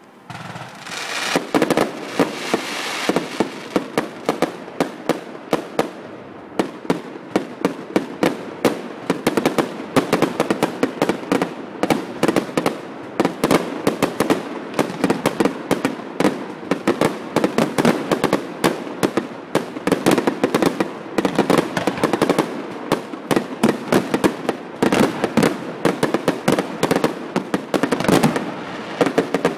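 Fireworks display: a dense, continuous barrage of shell bursts, several sharp bangs a second over a steady hiss and crackle, starting suddenly about half a second in, with a brief lull shortly before the end.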